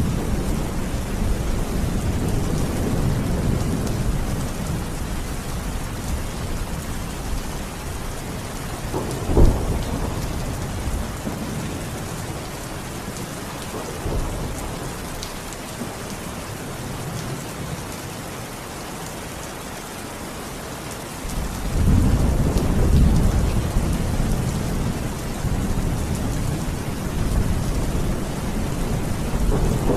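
Steady rain falling with rolling thunder. A sharp thunderclap comes about a third of the way in, the rumble dies down, and a new roll of thunder breaks in about two-thirds of the way through.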